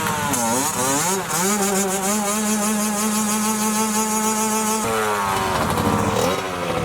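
A small engine revving, its pitch swinging up and down, then held at a steady high note for about three seconds before dropping away near the end.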